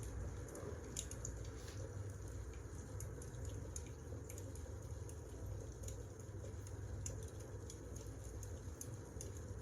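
Wood fire crackling: irregular sharp crackles and pops over a steady low rumble.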